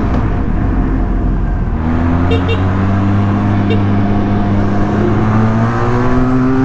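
Motorcycle engine, the rider's Benelli TRK 502X parallel-twin, pulling in gear under throttle, its note climbing steadily for several seconds and dropping off at the very end, over a rush of riding wind.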